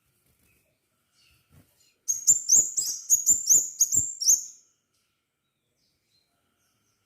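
Crimson sunbird singing a short, fast burst of about nine or ten sharp, high notes, roughly four a second, starting about two seconds in and lasting two and a half seconds.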